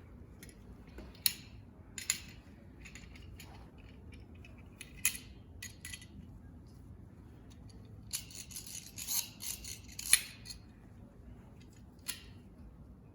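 A speculum being handled: a series of sharp clicks and small clattering knocks, busiest from about eight to ten and a half seconds in.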